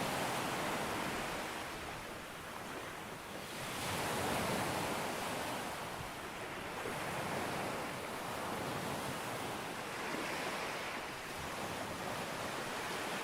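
Sea waves breaking on a beach: a continuous wash of surf that swells and eases as successive waves come in, loudest just at the start and about four seconds in.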